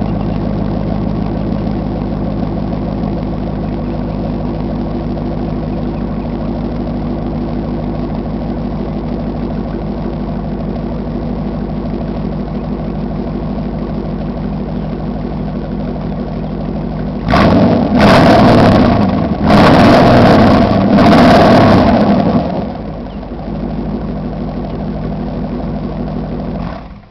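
1998 Chevrolet Z71's 350 Vortec V8 idling through true dual exhaust with no mufflers, only the factory catalytic converters. About two-thirds of the way in it is revved three times in quick succession, then settles back to idle.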